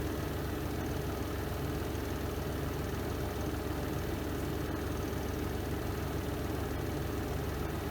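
Spin drum of a Renova semi-automatic twin-tub washing machine running steadily through its spin cycle: an even, low motor hum.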